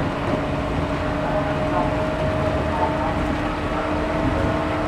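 Cabin running noise of a JR 113 series 1500-subseries electric train: steady wheel-on-rail rumble with an even hum from the running gear as the train runs at steady speed.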